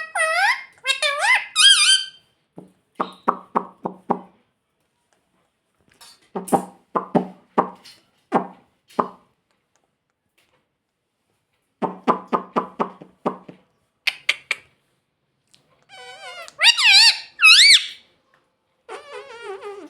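Ringneck parrot calling: shrill, wavering squawks near the start and again about three-quarters of the way through, with runs of quick repeated chattering notes, about six a second, in between.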